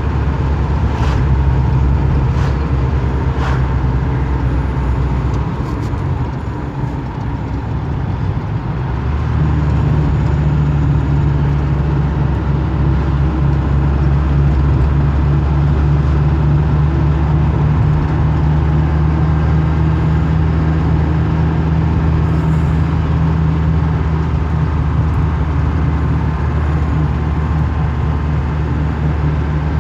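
A motor vehicle's engine running with a steady low drone, its note shifting about nine seconds in, with a few faint clicks in the first few seconds.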